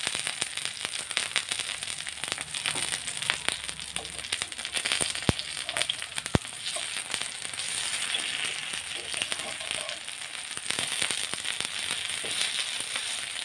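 Raw banana and onion fritters shallow-frying in oil on a tawa, the oil sizzling and crackling with constant little pops. A metal spatula clicks and scrapes against the pan as the patties are flipped, with two sharper clicks about halfway through.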